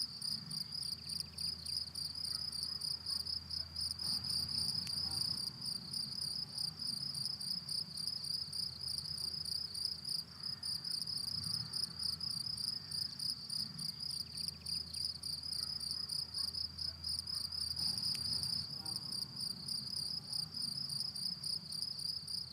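Crickets singing in a continuous, high-pitched trill that never pauses, with a low rumble underneath.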